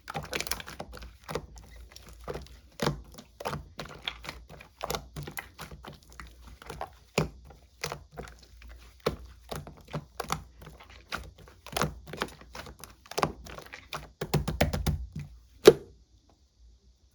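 Slime being pressed and poked by hand, making a quick run of sharp clicks and pops, about two a second, that stop near the end.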